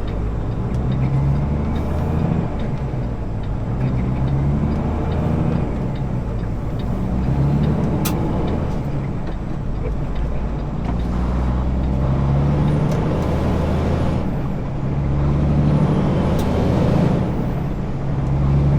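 Semi truck's diesel engine running under way, its low note stepping up and down every few seconds, with a few sharp clicks.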